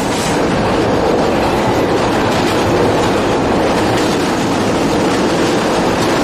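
Moving passenger train heard from inside the carriage through open windows: a loud, steady rumble of the wheels running on the rails.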